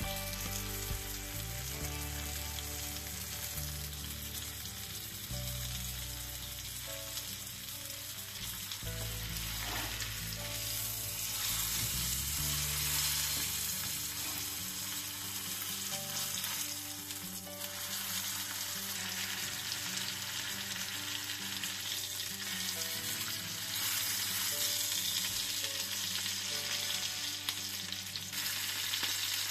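Beef fillet sizzling in foaming butter in a frying pan. The sizzling swells twice, about midway and near the end, as the fillet is lifted and turned with tongs.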